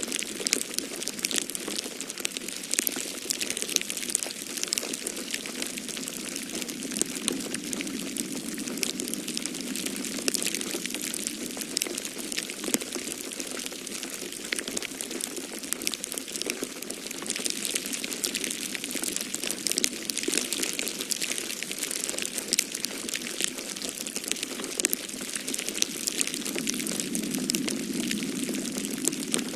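Wood fire in a fireplace crackling steadily with many small pops, over a low blowing of snowstorm wind that swells a few seconds in and again near the end.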